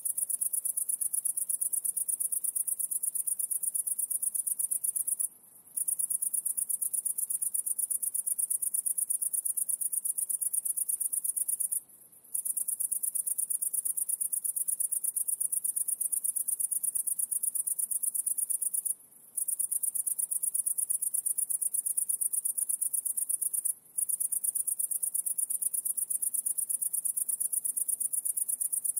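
High-pitched, rapidly pulsing insect trill, broken by four short pauses of under a second each.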